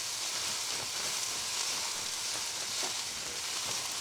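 Sliced vegetables (cabbage, carrot, onion, bell pepper) sizzling in a non-stick pan on high heat: a steady, even hiss, with a few light knocks of stirring.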